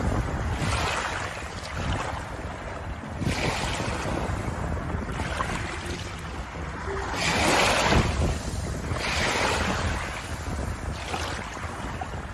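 Ocean waves washing in and drawing back in repeated surges, the loudest one about eight seconds in.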